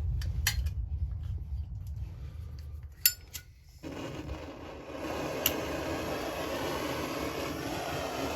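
A few sharp clicks, then about four seconds in a steady rushing hiss starts suddenly and keeps going: the heat source being turned on to warm the chainsaw crankcase so its press-fit crankshaft bearings can be knocked out.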